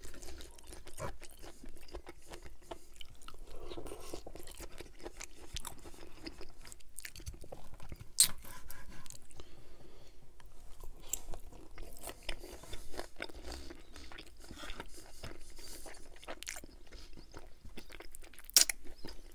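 Close-miked chewing of ribeye steak with a crunchy pecan crust: wet mouth sounds, crunches and small sharp clicks, with knife and fork scraping on the serving board. A louder sharp smack near the end as a finger is licked.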